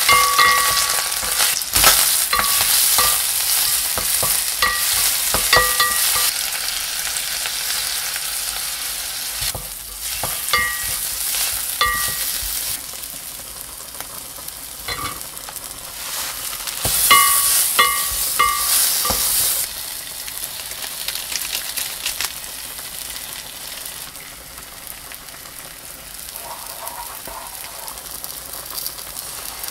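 Sliced green onions and chili flakes sizzling in oil in a pot, stirred with a wooden spoon. Groups of short ringing clinks come now and then as the spoon knocks against the pot; the sizzle is louder early on and again briefly in the middle, then quieter.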